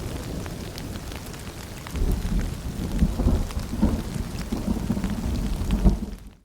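Steady rain with scattered drops pattering, under a low rumble of distant thunder that swells about two seconds in. Near the end it all fades out to a brief moment of dead silence.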